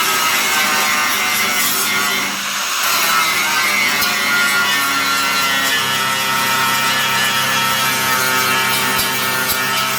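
Angle grinder grinding steel off a car floor pan, taking off the remains of a welded-on seat-mounting triangle. It grinds steadily with a whine, easing briefly about two and a half seconds in and again near the end as the load changes.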